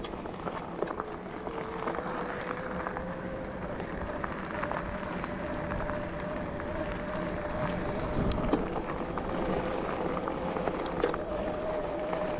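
A bicycle rolling along a forest track: steady tyre noise with small clicks and rattles from the trail. Under it runs a thin steady whine that rises slowly in pitch, with a heavier low rumble about two-thirds of the way in.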